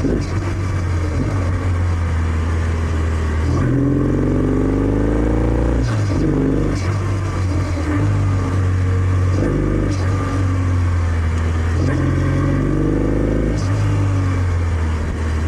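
Kawasaki W650's air-cooled parallel-twin engine running through its stock exhaust while riding. Engine speed climbs and then drops sharply about four times, the pattern of accelerating and shifting up through the gears.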